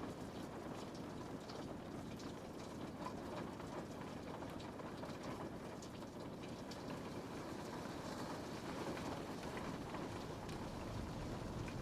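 Steady rain falling and pattering on a window pane, a continuous even hiss with scattered light drop ticks.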